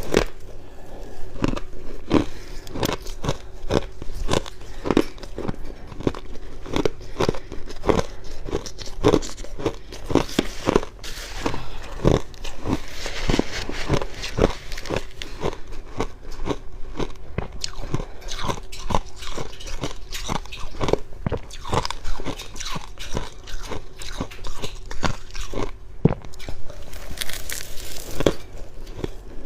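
A person biting and chewing crunchy freezer frost close to the microphone, with sharp dry crunches coming a few times a second without a break. A faint steady hum runs underneath.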